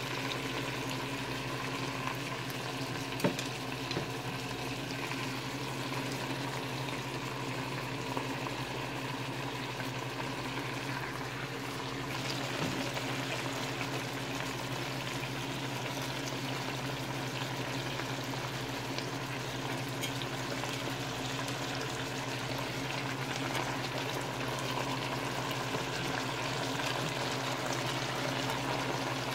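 Chicken pieces and chopped vegetables frying in melted butter in a pot: a steady sizzle over a low hum, with a few light knocks near the start.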